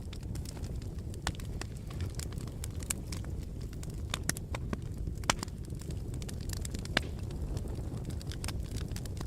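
Fire burning in a fireplace, crackling with many small irregular pops over a steady low rumble of the flames, with two sharper, louder pops about five and seven seconds in.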